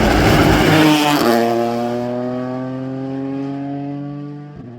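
Rally car passing close at speed with a loud rush, then its engine note climbing steadily as it pulls away and fades.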